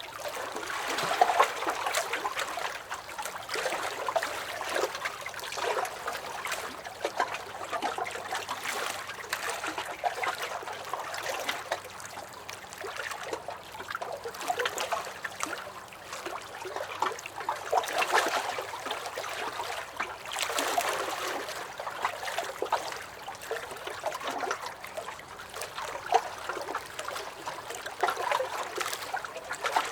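Small lake waves lapping and splashing against a dock, in irregular slaps and gurgles that keep coming without pause.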